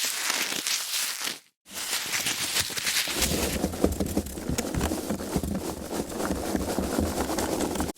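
Foam packaging being handled, rubbed and squeezed, giving a dense run of crackling and creaking. It cuts out for a moment about a second and a half in, and from about three seconds in the handling turns fuller and deeper.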